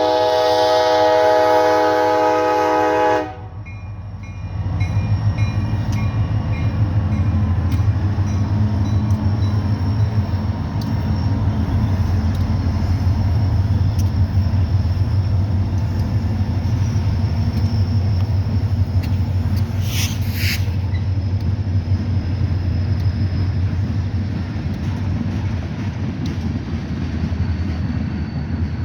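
Diesel locomotive horn blowing a chord that cuts off about three seconds in, followed by the steady low rumble of the Wheeling & Lake Erie train's locomotives and cars rolling past, with a brief sharp high-pitched noise about two-thirds of the way through.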